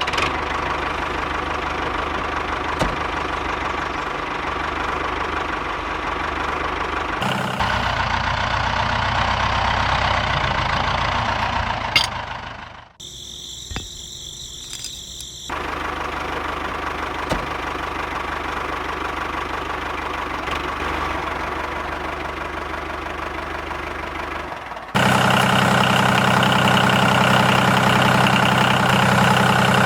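A small motor running steadily in several cut-together stretches. Its pitch and loudness change abruptly at each cut, with a quieter stretch about a third of the way in and the loudest stretch near the end.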